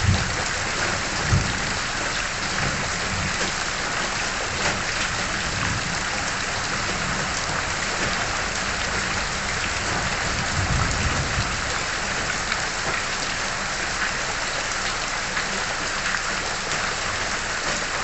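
Steady rain falling and splashing on surfaces, an even hiss that holds its level throughout. A low rumble of thunder dies away in the first second or so, and another low rumble swells briefly about ten seconds in.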